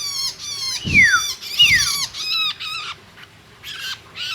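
Long-tailed shrike (cendet) giving a run of short, harsh, rasping calls, with two quick falling whistles about a second in and just after, each with a low thud beneath it. The calls pause briefly, then start again near the end.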